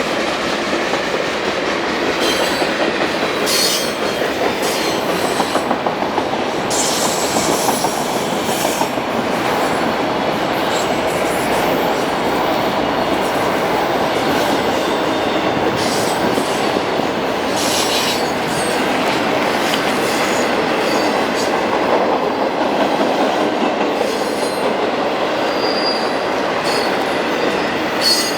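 Freight train cars rolling past on the rails: a steady rumble and clatter of wheels on track, with brief high wheel squeals now and then, one near the end.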